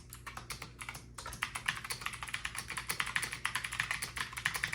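Fast typing on a Hawksbill Scorpion V1 mechanical keyboard with tactile, clicky switches: a rapid stream of keystroke clicks, with a short break about a second in.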